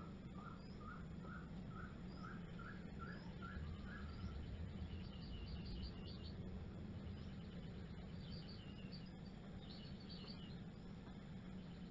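Birds calling: a short note repeated about twice a second for the first few seconds, then bursts of higher, quicker chirping, over a steady low hum.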